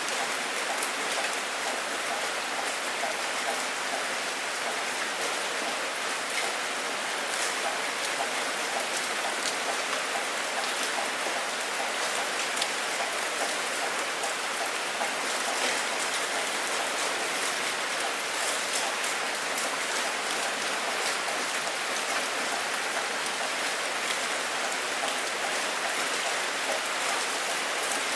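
Steady rain falling: an even hiss of rain with scattered drop ticks, with no thunder.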